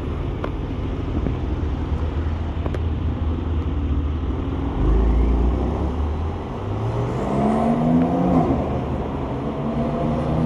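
Sports car engines running in street traffic: a steady low rumble, a deeper surge of engine noise about five seconds in, then an engine revving up with rising pitch between about seven and eight and a half seconds in.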